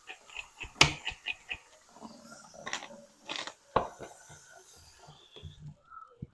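Kitchen handling noises: a run of small clicks and crunches with two sharp knocks, one about a second in and a louder one near four seconds.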